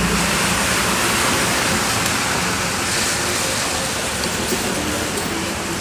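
Steady rain falling on a wet city sidewalk and street, an even hiss, with traffic on the wet road mixed in.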